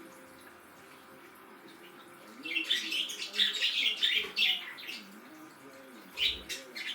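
Budgerigars chirping and chattering: a quiet stretch, then a burst of quick high chirps for about two seconds, and another short burst near the end.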